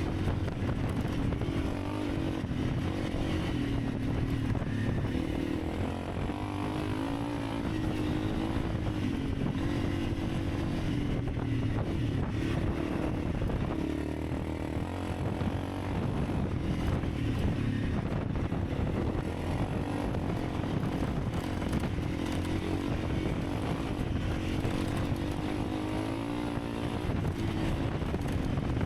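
Honda CRF300 Rally's single-cylinder four-stroke engine running under way, its pitch wavering up and down with the throttle, over a steady rushing noise.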